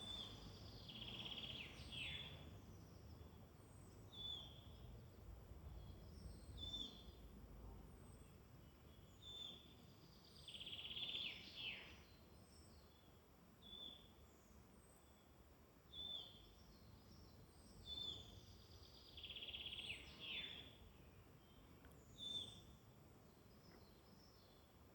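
Faint woodland birdsong: one bird gives a short high call about every two seconds, and a longer trilling phrase that falls at its end comes three times, about nine seconds apart, with fainter very high calls behind.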